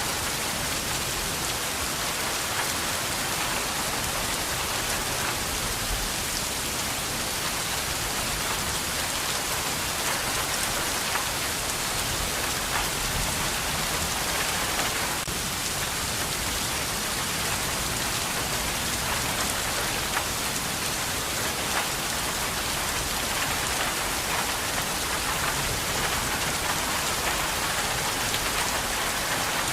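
Steady rain falling on a hard surface, an even hiss with many fine drop ticks through it.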